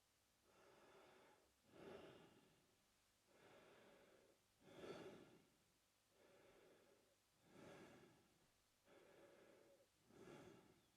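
A man breathing slowly and faintly through his mouth, four full breath cycles about every two and a half to three seconds. Each cycle is a softer, longer breath followed by a louder, shorter one.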